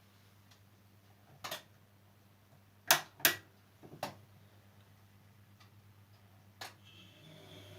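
Siemens Siwamat C10 washing machine giving a few irregular sharp clicks and knocks, the loudest a close pair about three seconds in, over a steady low hum.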